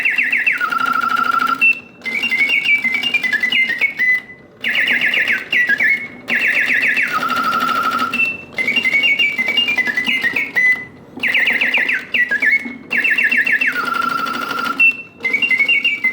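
Circa-1900 Bontems double singing bird cage playing its mechanical bird song: whistled trills and chirps in phrases of about three seconds, each broken by a short pause, over a steady low hum from the clockwork.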